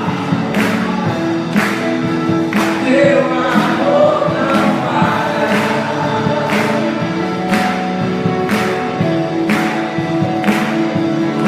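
Christian worship music: a band with group singing, and a sharp drum or cymbal hit about once a second.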